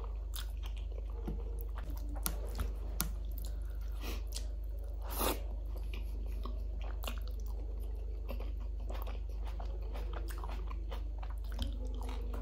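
Close-miked eating: a mouthful of kadhi chawal (rice in yoghurt curry) being chewed, with wet mouth clicks and a few crunches, and fingers mixing the rice in a steel plate. The loudest crunch comes about five seconds in, over a steady low hum.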